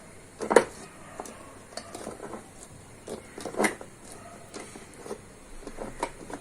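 Scattered light clinks and knocks of a bowl and dishware as filled bread slices are dipped and turned in beaten egg, with the two loudest knocks about half a second and three and a half seconds in.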